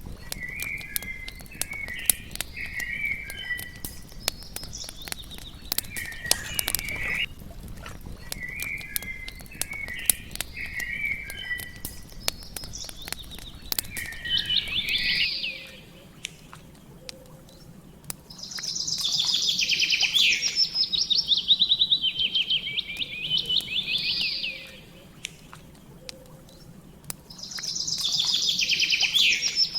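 Songbirds chirping over the sharp crackle of a wood campfire. About halfway through the crackle stops, and a bird sings two long, fast, loud trills with a short pause between them.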